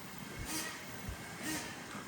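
Ofna Titan monster truck's .25 nitro engine running, its pitch rising and falling as the throttle is worked, with bursts of hiss.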